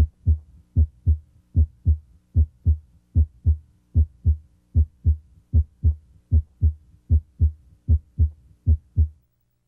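Heart sounds heard at the mitral area: paired lub-dub beats, S1 (mitral valve closure, usually the louder one here) followed by S2, at a steady rate of about 75 a minute. The beats stop shortly before the end.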